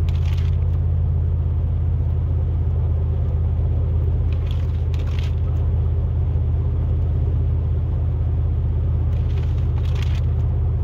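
Steady low drone of a pickup truck's engine and tyres at highway speed, heard inside the cab, with faint short noises about every five seconds.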